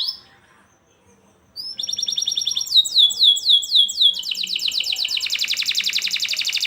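Domestic canary singing. After a brief pause, a rising note opens into a quick trill, then about five slow downward-sweeping whistles, then a fast, dense rolling trill that carries on.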